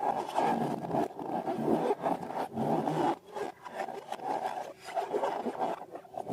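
Irregular rubbing and scraping sounds from slime and balloons being handled and worked by hand.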